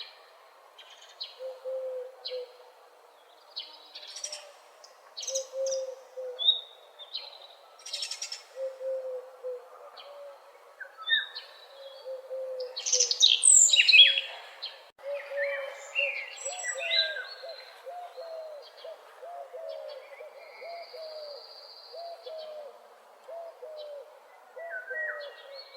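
Dawn chorus of mixed wild birds: assorted songbirds chirping, trilling and whistling over a lower bird repeating short hooting notes in phrases, which come faster and more continuously in the second half.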